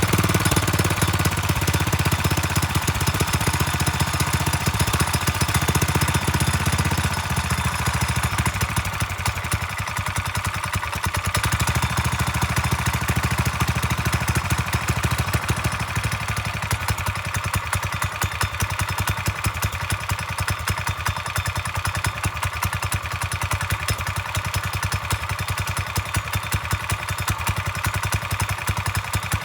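Predator 301cc single-cylinder engine on a home-built dirt bike, running unevenly. It is louder for the first seven seconds or so, then settles lower and quieter. The owner takes it to be running rich on a junk carburetor.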